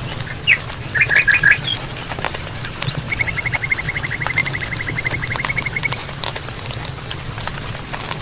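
Campfire crackling with scattered sharp pops, under small animal calls: a few quick chirps about a second in, a fast even trill from about three to six seconds, then short high whistles repeating near the end.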